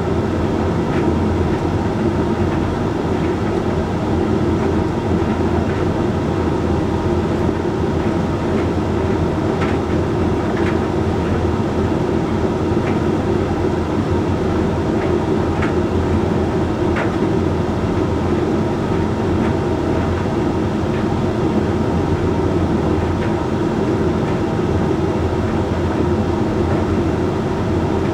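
Hoover Link X Care condenser tumble dryer running mid-cycle: a steady rumble and hum from the motor and turning drum, with faint, irregular ticks every second or two.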